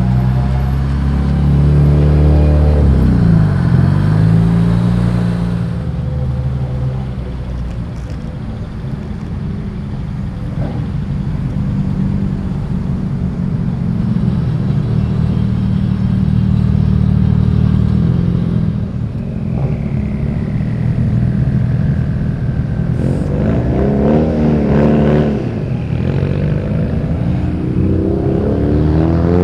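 Cars driving past one after another as they leave a car meet, engines running loud with notes that rise and fall as each passes and revs, busiest again after about 23 seconds.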